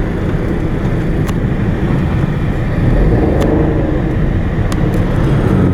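Car on the move: steady engine and road rumble, swelling slightly around the middle, with a few light clicks.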